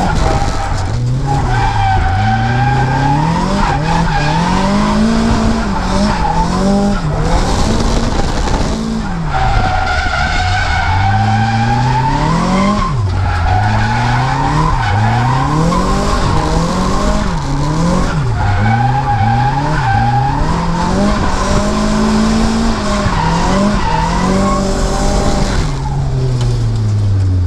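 Nissan S14's turbocharged SR20DET four-cylinder engine revving up and dropping back over and over through a drift run, with tyres squealing as the car slides.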